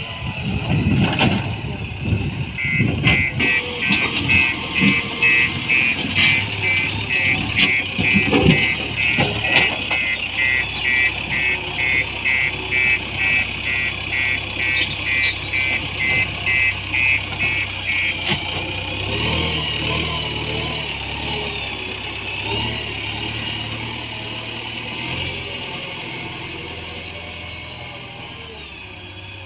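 JCB 3DX backhoe loader's diesel engine working under load, with sharp knocks during the first ten seconds, and its reversing alarm beeping rapidly at a high pitch from a couple of seconds in until roughly two-thirds of the way through. Afterwards the engine runs on steadily, getting a little quieter near the end.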